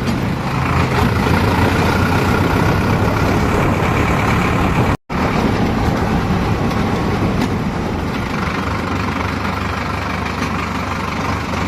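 Heavy diesel machine engine running steadily, with a brief dropout to silence about five seconds in.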